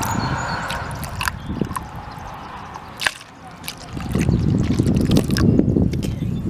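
Antifreeze being poured from a jug into a car's coolant reservoir, with a trickling, gurgling pour and a few sharp plastic clicks. About four seconds in, a loud low rumbling noise takes over.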